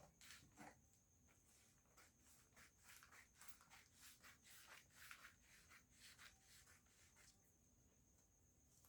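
Faint, irregular rustling and snipping of scissors cutting through pattern paper along a curved line, just above near silence.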